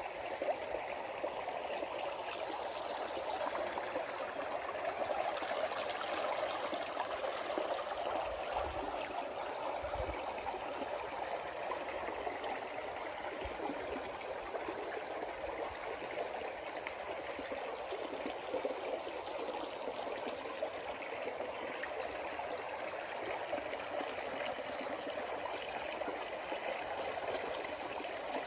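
Creek water flowing steadily, an unbroken rushing babble.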